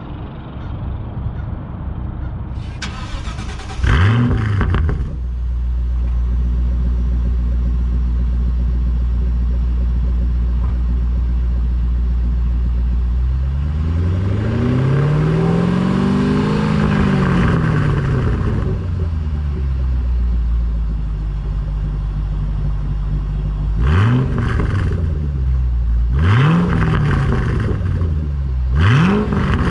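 Shelby GT500's supercharged V8 through a Borla ATAK exhaust, idling low and being revved: a quick blip about four seconds in, a slow rev up and back down in the middle, then three sharp throttle blips near the end.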